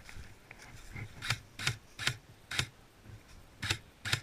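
Airsoft rifle firing six sharp single shots at an irregular pace, four in quick succession in the first half and two more near the end.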